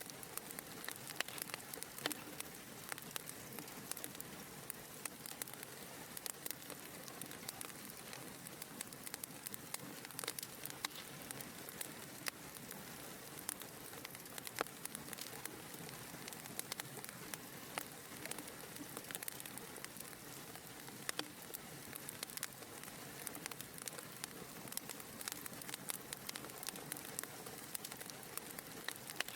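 Wood fire crackling, with frequent small pops and snaps scattered over a steady low hiss.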